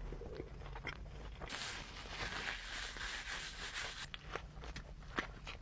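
Close-miked eating of a McDonald's Big Mac: a crackly rustle of about two and a half seconds, then short clicks of chewing.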